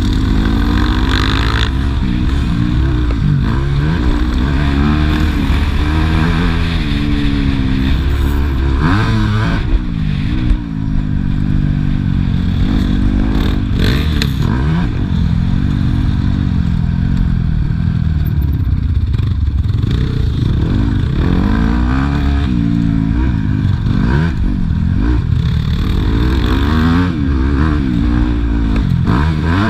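Motocross bike engine revving hard, its pitch climbing and dropping again and again as it accelerates and shifts, with some clatter.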